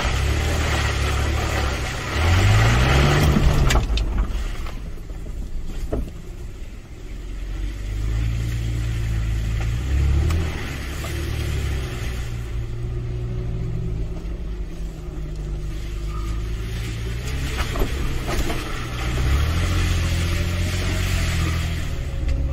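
Toyota FJ Cruiser's 4.0-litre V6 engine heard from inside the cab while crawling along a rutted dirt track, its revs rising and falling several times with the throttle. A louder rush of noise covers the first few seconds, with a quick rise in engine pitch near its end.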